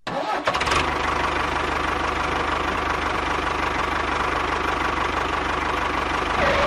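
Small engine running steadily at an even idle, with a fast regular pulse and a steady whine, starting and stopping abruptly.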